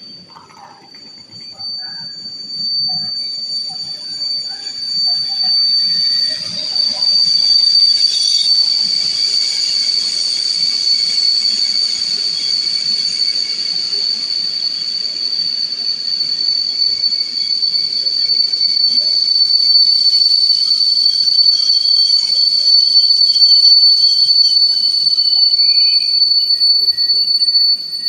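Train in a station with a sustained high-pitched wheel squeal, building over the first several seconds and then holding steady and loud. It cuts off abruptly near the end.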